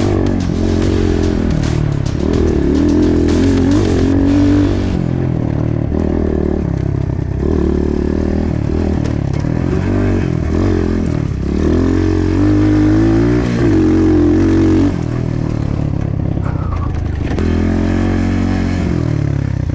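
Side-by-side UTV engine driven hard on a trail, revving up and falling back again and again as the throttle is worked through turns.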